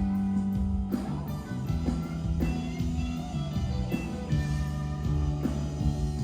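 Rock band playing an instrumental passage: guitar lines over held bass notes that change about every second.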